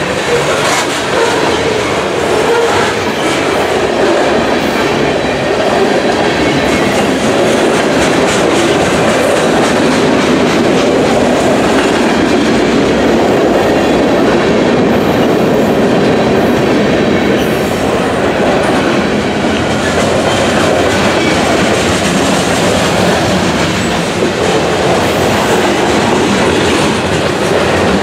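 Freight train's cars rolling past close by: steel wheels clicking over the rail joints over a steady, loud rumble, with covered hoppers, an autorack and lumber-loaded centerbeam flatcars going by in turn.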